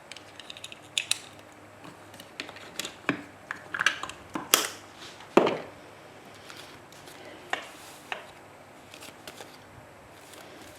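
Paper and craft materials handled on a tabletop: scattered short taps, clicks and paper rustles, with a few louder scrapes around the middle.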